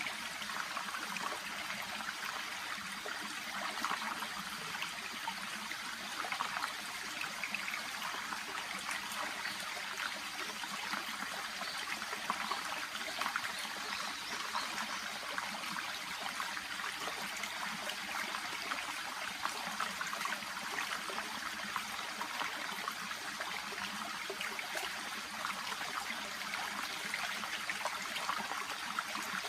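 Shallow babbling brook running steadily: a continuous rush of water full of small trickling splashes.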